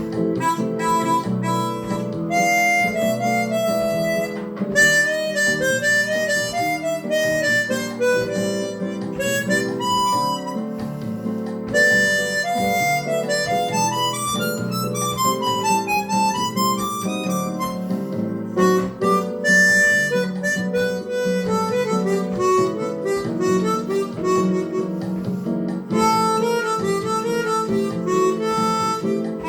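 Chromatic harmonica playing a Brazilian-jazz melody over a guitar accompaniment, with a quick run down and back up in pitch about halfway through.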